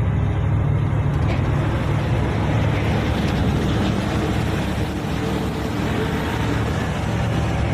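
Heavy water tanker truck driving: a steady low engine rumble mixed with road and wind noise.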